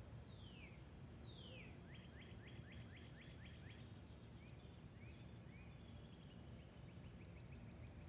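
A songbird singing faintly: two long falling whistles, then a quick run of about ten short notes, then a few short rising notes and another fast series of notes near the end. A steady low rumble runs underneath.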